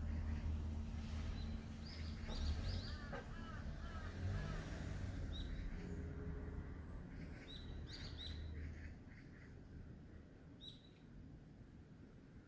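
Wild birds calling: a small bird gives short high chirps every second or two, with a run of lower, curving calls about two to four seconds in. A steady low hum underneath fades out about nine seconds in.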